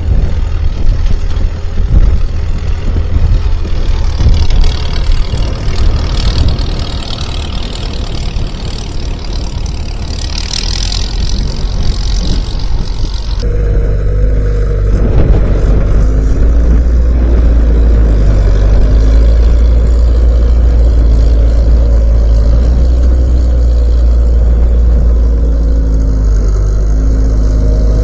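Skid steer loader's engine running. The sound is rough and uneven at first, then changes abruptly a little past halfway to a steady, low drone.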